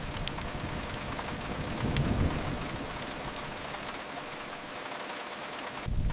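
Steady rain hissing against a window. A low rumble swells about two seconds in and fades away, then a deeper rumble cuts back in suddenly near the end.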